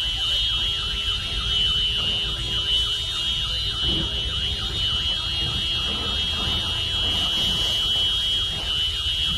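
Car alarm sounding continuously: a steady high-pitched tone with a faint repeating warble beneath it, over a low rumble.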